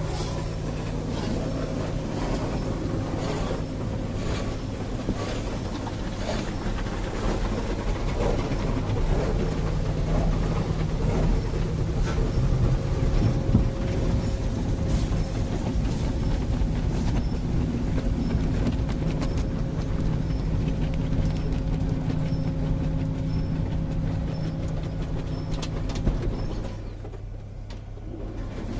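Automatic car wash machinery working on the car, heard from inside the cabin: a dense noisy wash of spraying and scrubbing over a steady low hum. Near the end the noise suddenly falls away, leaving only the low hum.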